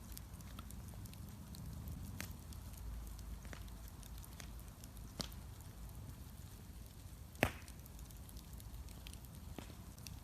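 Bonfire crackling, with scattered sharp pops and snaps and one louder pop about seven seconds in, over a low steady rumble.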